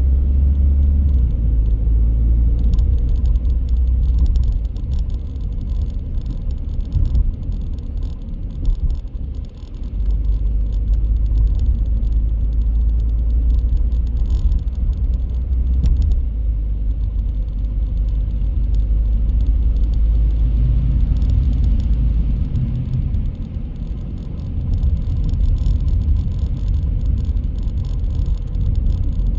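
Car driving on city streets: a steady low rumble of engine and tyre noise, easing briefly about a third of the way in and again later.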